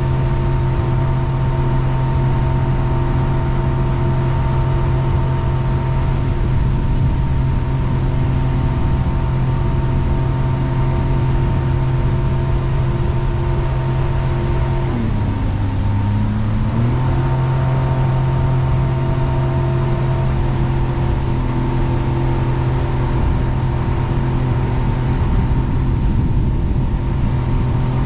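Jet boat's engine running steadily under way over a constant rushing noise. About halfway through, the engine speed drops briefly and then comes back up.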